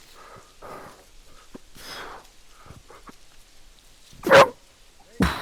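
A strongman athlete breathing hard under a heavy lift, then two short, loud grunts of effort about a second apart near the end.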